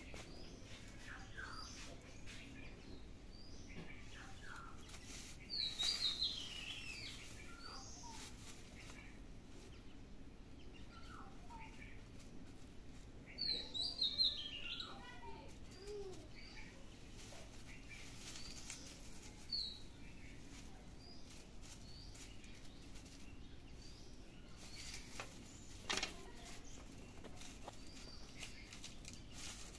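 Birds chirping in short, quick, falling notes, in clusters about six seconds in and again around fourteen seconds, with scattered single chirps between. Light rustling of thin plastic strips as a kitten paws at them, with a short sharp rustle near the end.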